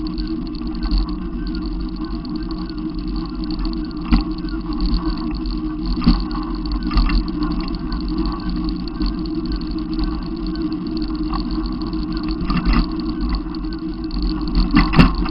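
Steady low rumble of a motor vehicle running, with a few short knocks and a louder thump near the end.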